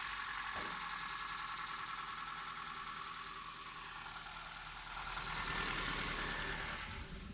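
Toyota 3S inline-four engine idling steadily, settling after a rev, with a slight swell about five seconds in; the sound cuts off just before the end, as the engine is switched off.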